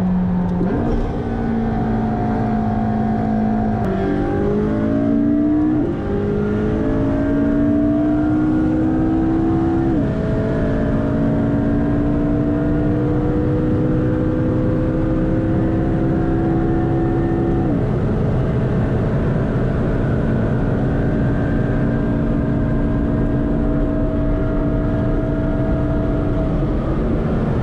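McLaren twin-turbocharged V8 accelerating hard through the gears. Its note climbs steadily and drops at four upshifts, which come further apart as the gears get longer, over a steady low rumble.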